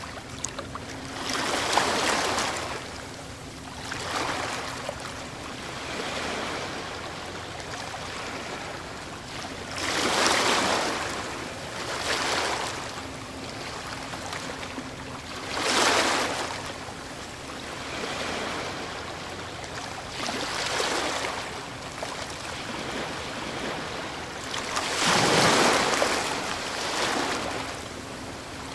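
Ocean waves breaking and washing up a shore, the surf surging and falling away every few seconds, with the biggest waves about a third of the way in, around the middle and near the end.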